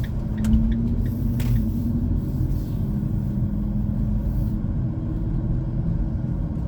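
Car driving along a road, heard from inside the cabin: a steady low rumble of engine and tyres with a faint hum, and a few light clicks about a second in.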